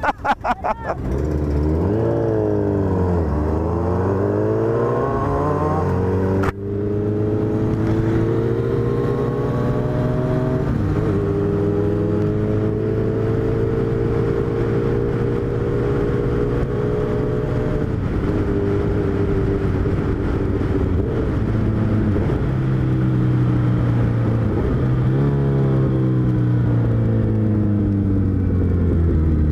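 Suzuki Hayabusa's inline-four engine accelerating: the revs climb, break off sharply about six seconds in at a gear change, then rise slowly and fall and rise again near the end.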